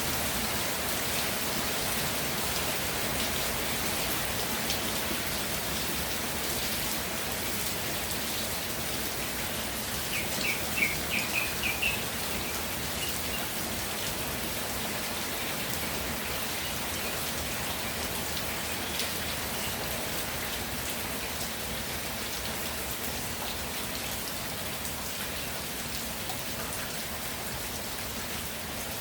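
Steady rain falling, with individual drops ticking close by. About ten seconds in, a quick run of about six short, high chirps rises briefly above the rain.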